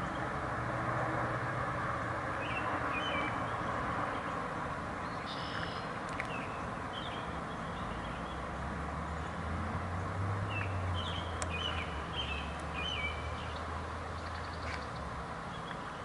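Short, scattered bird chirps come in small clusters over a steady background hiss and a low rumble.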